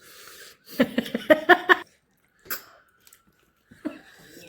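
Eating sounds close to the microphone: chewing and mouth noises from someone eating fish curry, broken by a short stretch of voice about a second in and a single click midway.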